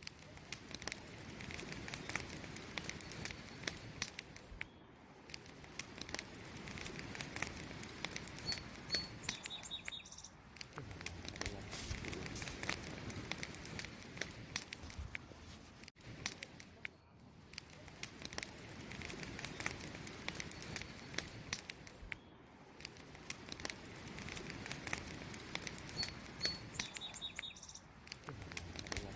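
Wood campfire crackling with frequent small pops and snaps, over the steady chirping of crickets. A brief high chirp sounds twice.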